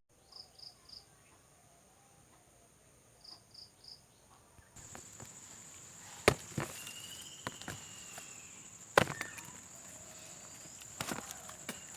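A steady high insect trill, cricket-like, that starts about five seconds in. Over it come a few sharp single knocks and a short gliding bird call; before it there are only faint chirps in threes.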